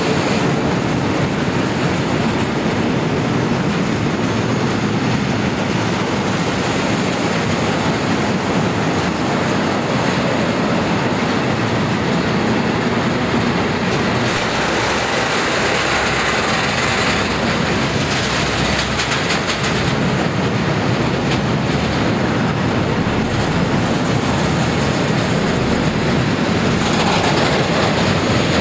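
Freight train of four-axle gas tank wagons rolling steadily past close by: a continuous rumble and hiss of steel wheels on rail, with a spell of rapid clicking from the wheels about two-thirds of the way through.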